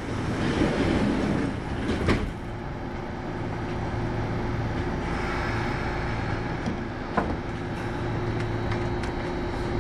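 Kintetsu 8810 series train car, heard from inside: the doors close with a rush of air and a knock about two seconds in, then the car's equipment hums steadily with a few light clicks.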